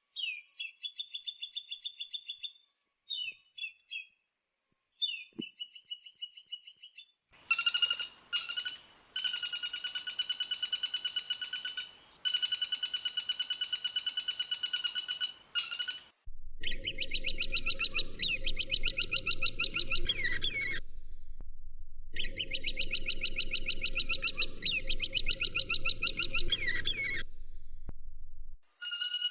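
Woodpecker calls: fast runs of high, rattling call notes in several separate recordings spliced one after another, each starting and stopping abruptly. Two of them, in the middle, carry a background hiss or low rumble.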